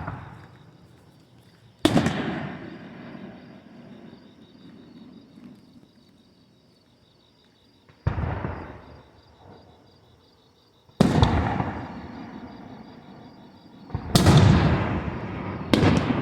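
Fireworks bursting overhead: five loud bangs about two to three seconds apart, each followed by a rumbling echo that fades away.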